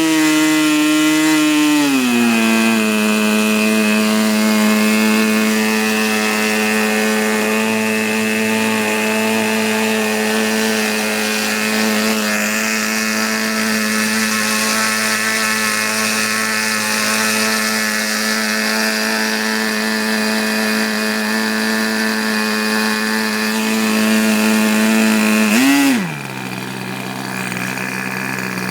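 Tower .40 two-stroke glow model engine running: its pitch drops about two seconds in and then holds steady for a long stretch. Near the end it revs up briefly, then settles to a lower, quieter idle.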